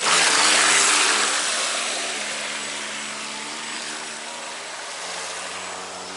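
Electric radio-controlled V-hull boat taking off under power: a sudden burst of motor whine and water spray that starts at once and slowly fades over the following seconds.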